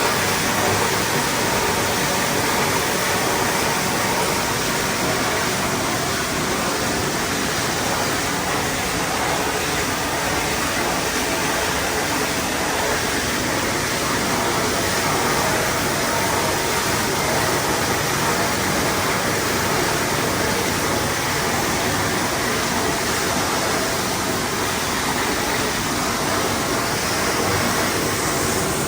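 Steady rush of hot-spring water pouring into a bath, even and unchanging.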